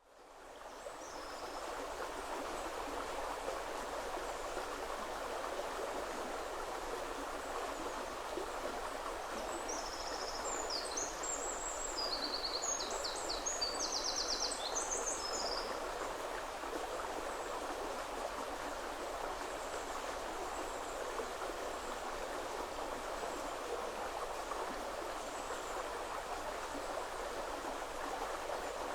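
Woodland river flowing steadily, a constant rushing of water that fades in over the first two seconds. About a third of the way in, a small songbird sings a fast, high, trilling phrase lasting several seconds.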